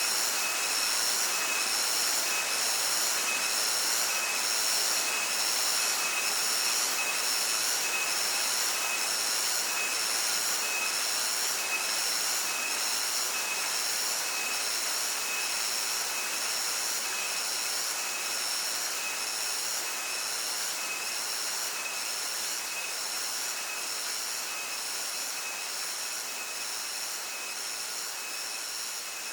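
Cicadas buzzing shrilly in steady, evenly repeated pulses over the constant rush of stream water; the level eases slightly toward the end.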